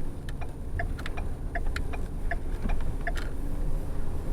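Bus turn-signal indicator ticking, a regular tick-tock about every three-quarters of a second, over the low steady rumble of the shuttle bus's engine and road noise.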